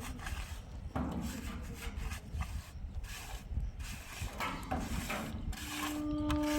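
Irregular rubbing and knocking of things being handled and moved, with a steady droning tone coming in near the end.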